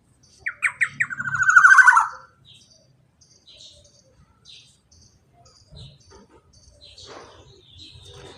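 Black-naped oriole (kepodang) song: a few quick notes about half a second in run straight into a fast rolling trill, the loudest part, which stops about two seconds in. Faint short high chirps repeat through the rest.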